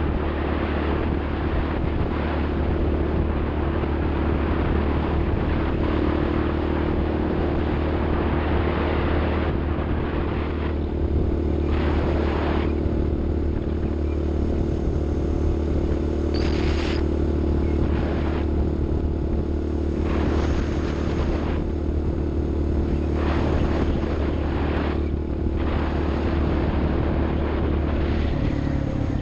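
A vehicle engine running steadily at a constant pitch, with short rushes of noise every few seconds. The engine note changes near the end.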